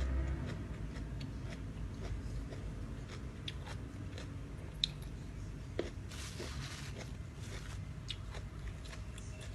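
A person chewing and biting into a salad of dried rice noodles with crispy squid: wet chewing with scattered sharp clicks and a short crunch about six seconds in.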